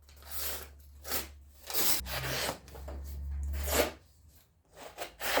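Steel knife blade being drawn across a sharpener in several separate scraping strokes, roughly a second apart, honing the edge of a dull Ozark Trail knife.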